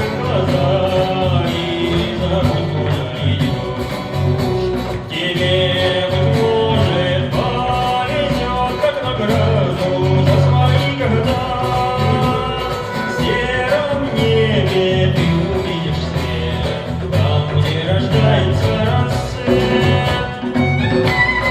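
Live acoustic band music with guitar and fiddle over a steady beat.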